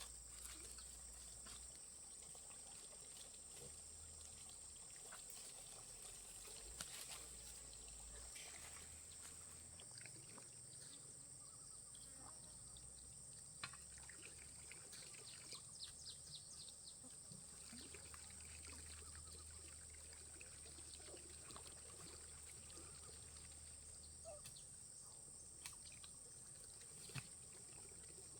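Near silence: faint outdoor ambience with a steady high insect drone and scattered small clicks.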